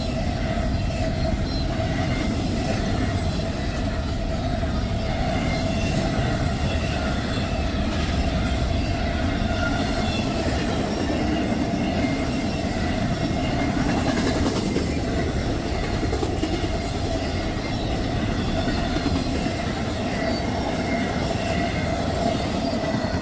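Intermodal freight train passing close by at speed, a steady loud rumble of wheels on rail with a constant ringing tone held over it.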